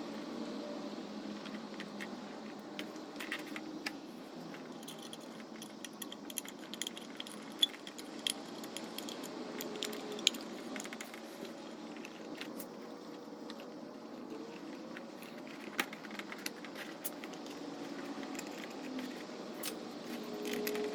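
Irregular small metallic clinks and clicks of hand tools and small metal parts being handled, over a steady low background hum.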